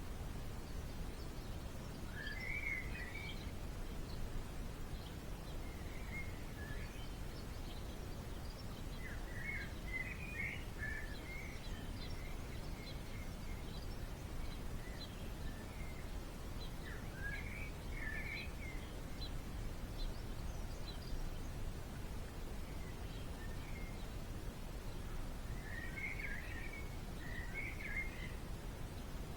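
Small birds chirping in short twittery bursts, five or six groups of calls spread through the stretch, over a steady low background rumble.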